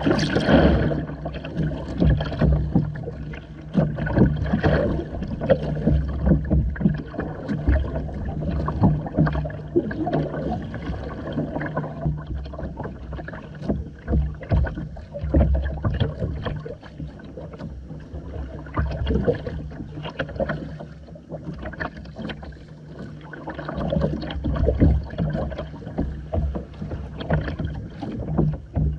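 Water splashing and slapping irregularly against the hull of a Hobie Island sailing kayak under way, over a steady low hum.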